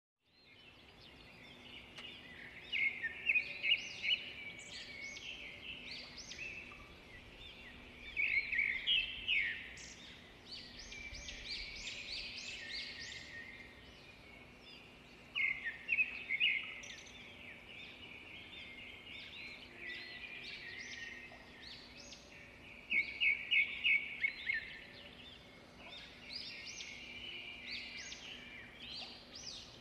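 Several birds chirping and twittering, with louder bursts of rapid repeated notes about three seconds in, around eight to nine seconds, around fifteen seconds and around twenty-three to twenty-four seconds. A faint steady hum lies underneath.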